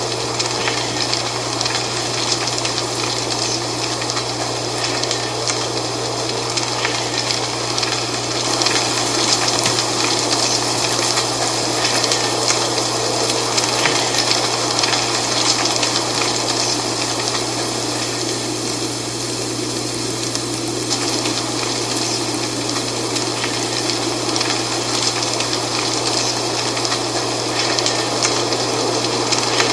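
Wind blowing through dry fall leaves: a steady rushing noise thick with fine rustling crackle, over a constant low drone.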